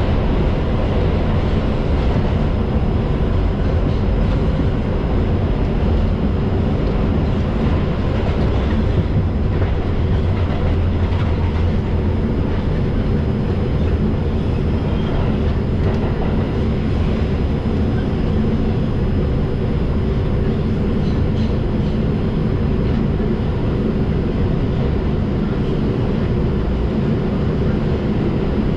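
Inside an R142 subway car running at speed through the tunnel: a steady, loud rumble of wheels on rail and the car's running gear.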